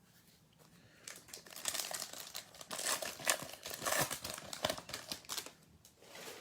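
A pack of trading cards having its wrapper torn open and crinkled: a dense, irregular crackle lasting about four seconds, with a short extra rustle near the end.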